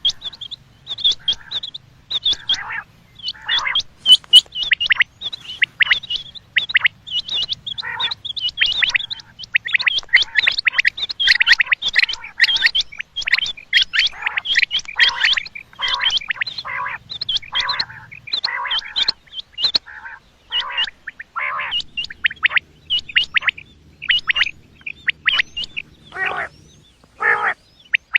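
Common quail calling over and over, a dense run of short, sharp calls that overlap, busiest in the middle.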